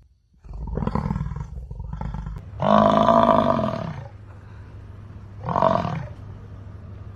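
American bison bellowing: a rough low rumble starts about half a second in, then comes one long, loud bellow and a shorter one near the end.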